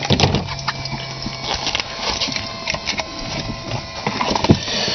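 Irregular clicks, knocks and rattles in a light aircraft's cockpit just after engine shutdown, over a low hum that stops about a second and a half in and a faint steady whine.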